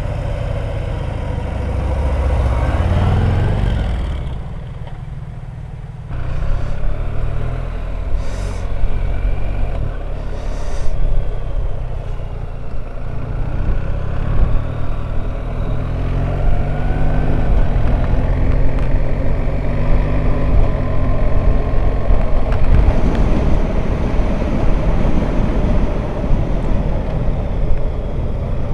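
Motorcycle engine running under way, its pitch slowly rising and falling with speed, over a heavy rush of wind and road noise; it drops off briefly a few seconds in, then picks up again.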